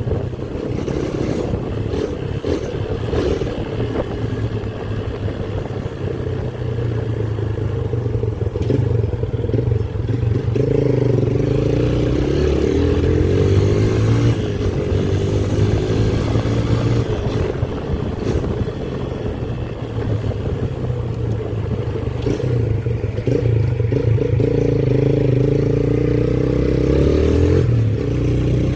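Motorcycle engine running under way, with wind and road noise. It picks up speed and eases off a couple of times, about ten seconds in and again near the end.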